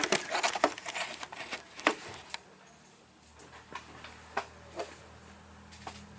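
Light clicks and taps of hands handling small parts and fittings, rapid for the first couple of seconds and then only occasional, over a faint steady low hum.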